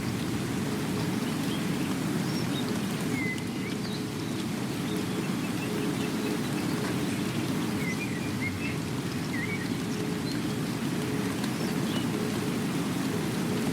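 Steady rain, an even wash of noise, with a few short bird chirps scattered through it.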